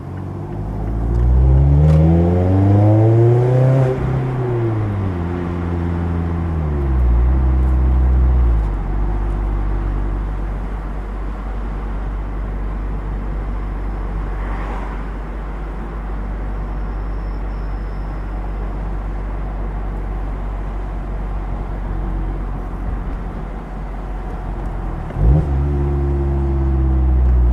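Mazda MX-5 Miata four-cylinder engine through a Goodwin Racing RoadsterSport race exhaust, heard from the driver's seat. The engine revs up for about four seconds, falls back and holds, then settles to a low steady note about nine seconds in. Near the end it rises quickly to a higher steady note again.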